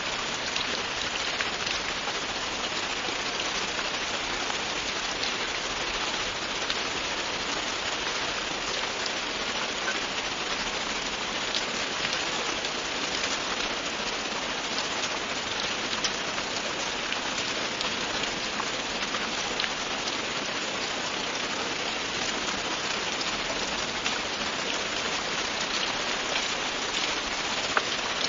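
Steady, continuous rainfall, a constant hiss with scattered individual drop ticks.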